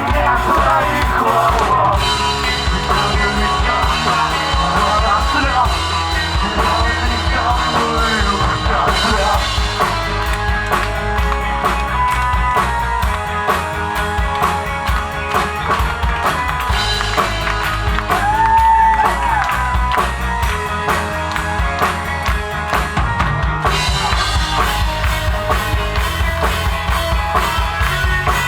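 Live rock band playing a song, with a drum kit keeping a steady beat under guitars and bass.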